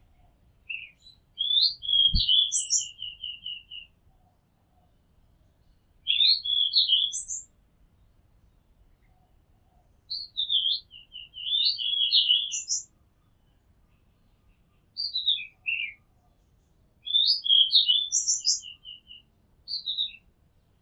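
Oriental magpie robin singing: short phrases of whistled notes, each phrase often ending in a quick trill of repeated notes, with pauses of a second or two between phrases. A brief low thump comes about two seconds in.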